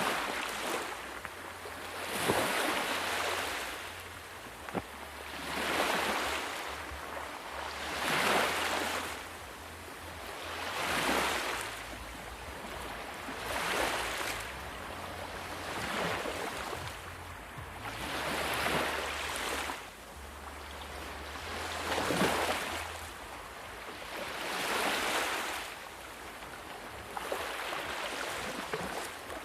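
Ocean surf: waves washing in one after another, each surge of hissing water swelling and fading about every two and a half to three seconds.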